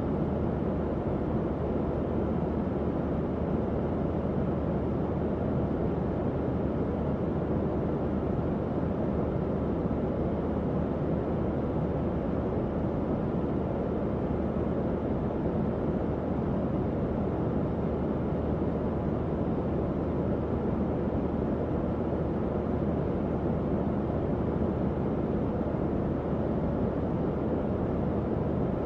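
Tower fan running steadily: an even airy rush, mostly low and midrange, with a faint low hum from the motor.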